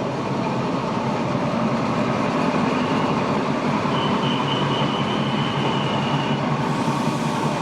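Train running on the rails, a steady dense rumble and rattle, with a faint high whine about halfway through; it cuts off abruptly at the end.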